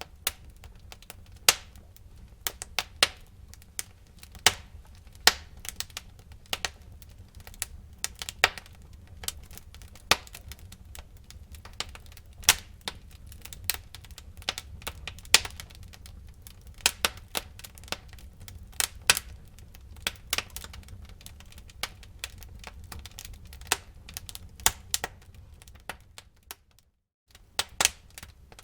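Wood fire in a fireplace crackling: irregular sharp snaps and pops over a low steady rumble of the flames, with a brief break of about half a second near the end.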